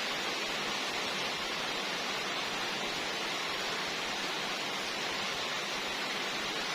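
Steady, even hiss with no distinct strokes or tones.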